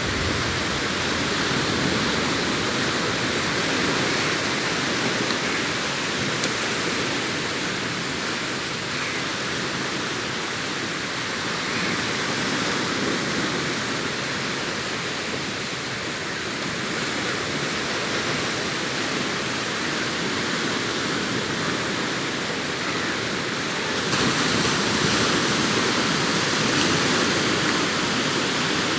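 Sea waves breaking and washing on a sandy shore: a continuous surf noise that swells and eases slowly, growing louder about 24 seconds in.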